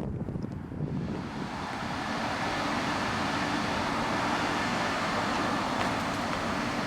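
Chevrolet 4500 cutaway truck's engine running, growing louder over the first second or two and then holding steady.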